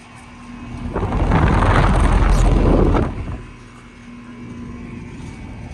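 Two Carrier Performance central air conditioner outdoor units running, their scroll compressors and condenser fans giving a steady hum with a low held tone. About a second in, a loud rush of air buffets the microphone for about two seconds, then the steady hum returns.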